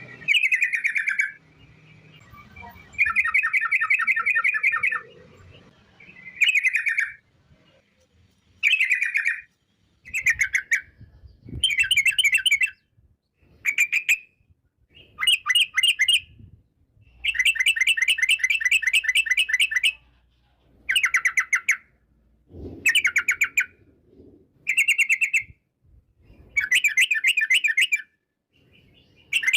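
Yellow-vented bulbul (trucukan) singing its long rolling trill ("ropel") in about fourteen repeated bursts, each a very fast run of chattering notes lasting from half a second to about three seconds, with short pauses between.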